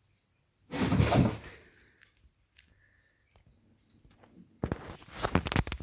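Bengal kittens playing: a loud rustling bump about a second in, a few faint high chirps, then a run of quick scratching, scrabbling clicks near the end.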